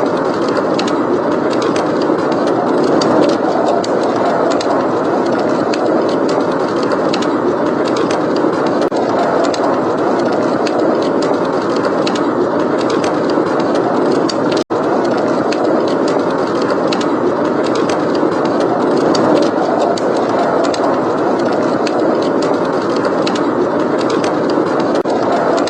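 Steady rush of blizzard wind with a wood fire crackling over it in many small pops. The sound cuts out for a split second about fifteen seconds in.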